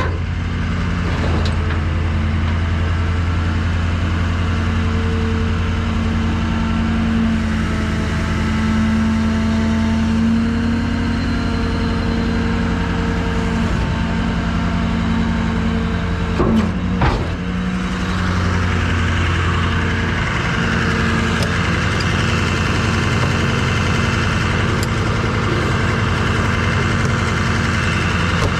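Tow truck engine running steadily with a low hum that shifts a little in pitch, with two brief knocks about two-thirds of the way through.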